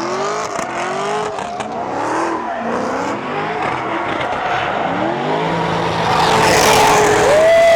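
Car engine revving up and down again and again as the car spins donuts, with tyre noise growing loud about six seconds in while the engine is held high, then climbing near the end.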